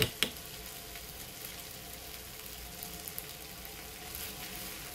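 Chicken breasts sizzling in oil on a stovetop griddle, a steady frying hiss. Two sharp clicks come right at the start.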